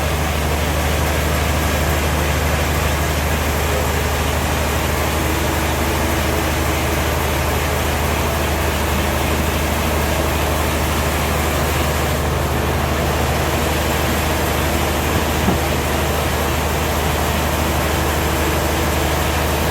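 Sawmill machinery running steadily: a constant low engine hum under an even mechanical noise, with no change in pitch.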